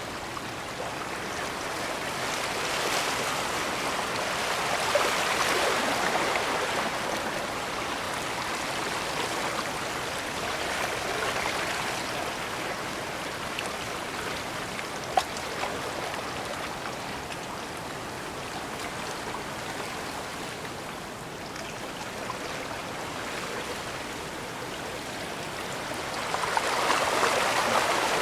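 Bay water washing against the shore in a steady rush that swells and eases every several seconds as small waves come in, with a single sharp click about halfway through.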